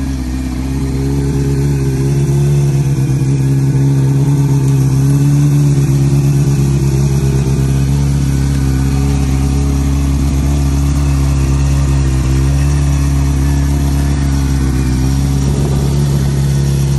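1984 Kawasaki GPz750's air-cooled inline-four engine idling steadily at a nearly constant pitch.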